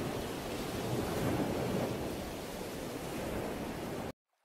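Steady rushing of open sea waves and wind, with no pitched sound in it, cutting off abruptly near the end.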